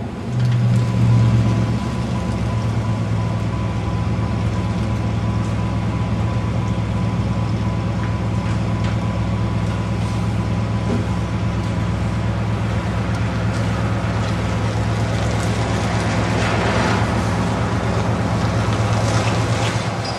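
A large vehicle engine running at a steady speed, a low even hum that comes in abruptly at the start and is loudest in the first second or two.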